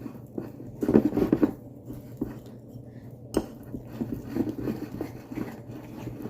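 Spoon stirring cake batter in a mug, with irregular scraping and tapping against the mug, a louder flurry about a second in and one sharp clink in the middle.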